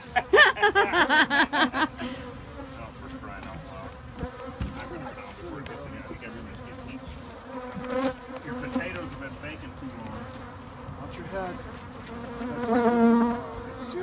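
Africanized honey bees buzzing in a steady hum, louder for a moment near the end.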